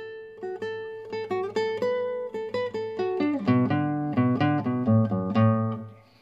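Background music: acoustic guitar playing a picked melody, with lower bass notes joining about halfway through.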